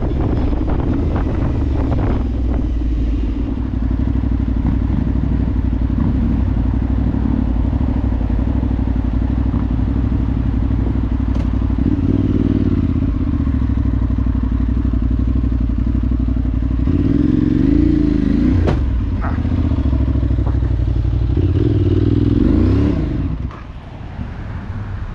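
Adventure motorcycle engine running off road, revving up briefly three times. Near the end the engine note drops and the sound gets quieter.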